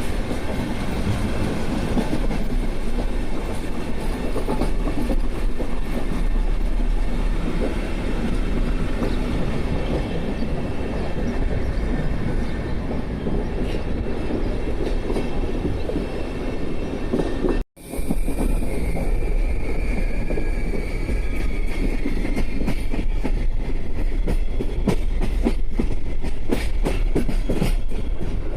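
Passenger train running on the rails: a steady low rumble with wheels clattering over the rail joints. The sound cuts out for an instant about two thirds of the way through, and after that the clicks come quicker and sharper over a faint high wheel whine.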